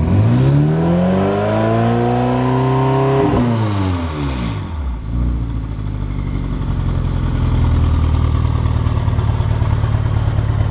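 2010 BMW X5M's twin-turbo V8 through an Eisenmann Race exhaust revved once: the pitch climbs for about three seconds, falls back quickly, then settles into a steady low idle.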